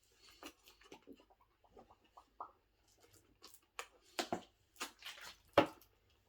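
Close-up eating sounds of someone wolfing down a sub sandwich: irregular wet clicks and crackles of chewing and handling the bread. The loudest come about four and five and a half seconds in.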